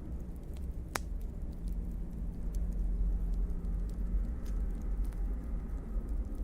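Wood fire burning in a fireplace: a low, steady rumble with scattered small crackles and one sharper pop about a second in.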